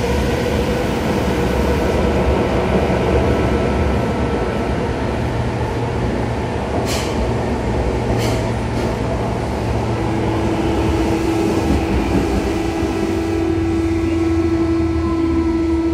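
Running noise inside a Tobu 9000 series electric train car: a steady rumble of wheels on rail under a set of steady whining tones from the traction equipment. A steady hum comes in about ten seconds in, two short high ticks are heard around seven and eight seconds in, and some tones glide downward near the end.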